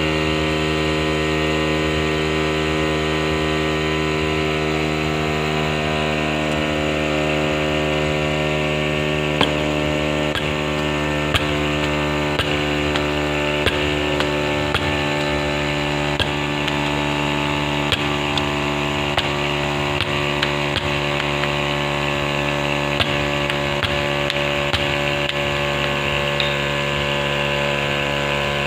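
A steady mechanical hum made of many even tones, unchanging throughout, with scattered light clicks and taps from about a third of the way in.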